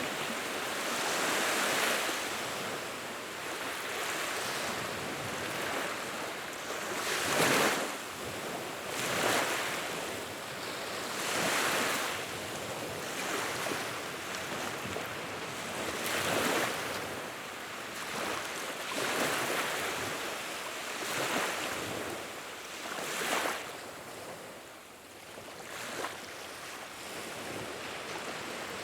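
Wood fire burning in a fireplace: a dense rushing crackle that swells and eases every two to three seconds.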